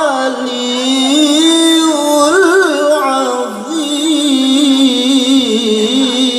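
A male qari's voice holding a long, ornamented melodic line of Quran recitation (tilawah). It slides between sustained notes, with a quick trill about two and a half seconds in.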